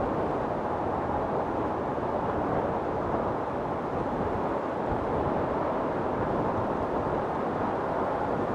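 Storm wind blowing hard, a steady deep rush with only small swells in strength.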